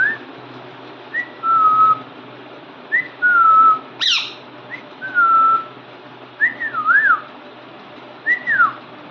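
Pet parrot whistling a short repeated phrase, a quick rising note followed by a held note, several times over, with wavering up-and-down whistles near the end. One sharp, high, falling chirp cuts in about four seconds in.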